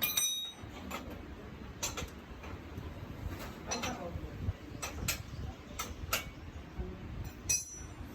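Scattered light metallic clicks and clinks of hand tools on a motorcycle engine's valve gear during a tappet clearance adjustment. There is a ringing clink at the start and another near the end.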